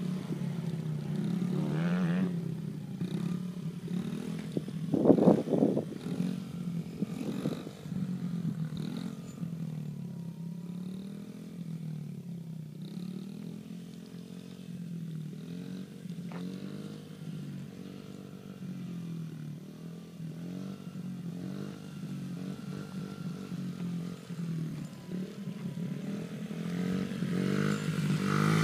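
Small dirt bike engine running, its pitch rising and falling with the throttle. There is a brief louder burst about five seconds in, and the engine grows louder near the end.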